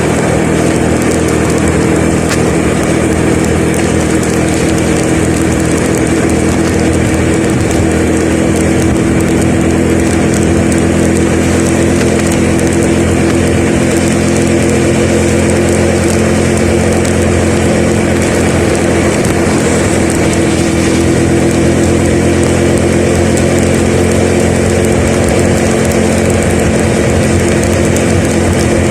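A vehicle engine running at a steady speed, with a continuous rush of road noise.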